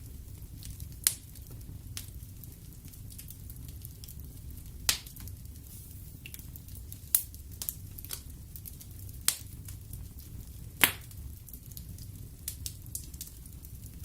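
Wood fire burning in a fireplace: a low steady rumble of flames with the logs crackling and popping irregularly, several sharp pops standing out, the loudest about five and eleven seconds in.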